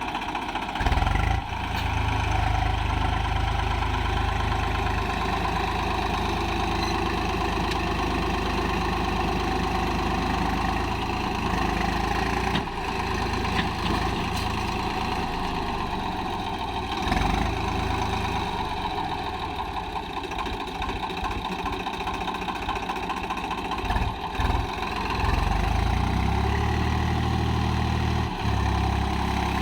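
Tractor diesel engine running steadily while hauling a trolley fully loaded with sand. Its low note shifts and dips briefly a few times.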